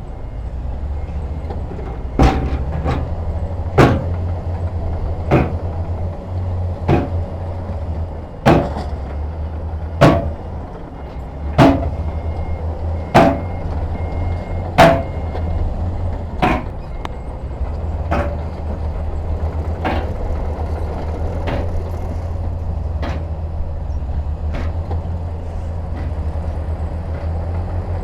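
Heavy diesel construction machinery running with a low, steady drone, overlaid by sharp metallic knocks about every second and a half. The knocks are loudest in the first half and fade toward the end.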